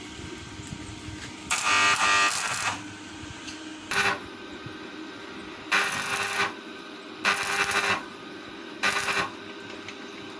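A small power tool run in five short bursts: a long one about a second and a half in, then four shorter ones, each a whirring noise that starts and stops abruptly.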